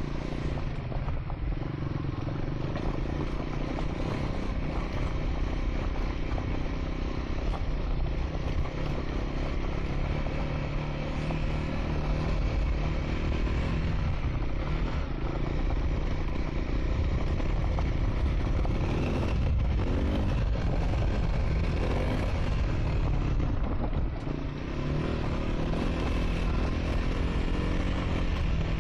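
Triumph Scrambler 400 X single-cylinder engine running while riding on a dirt track, its pitch rising and falling with the throttle. Heavy low rumble from wind and the rough surface runs underneath, with a few knocks about twenty seconds in.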